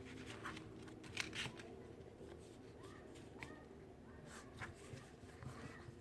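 Faint rustling and creasing of a sheet of paper being folded in half by hand, with a few soft crackles about a second in and again near the end, over a low steady hum.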